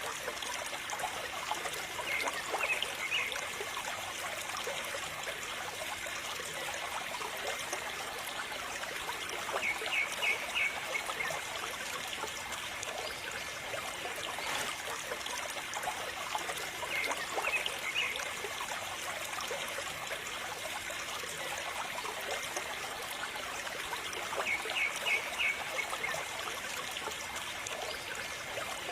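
Water trickling steadily. A short burst of quick chirps repeats about every seven seconds.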